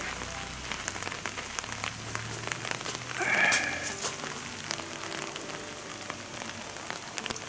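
Steady rain, with many small drop ticks. About three seconds in, a short high call rises briefly above it.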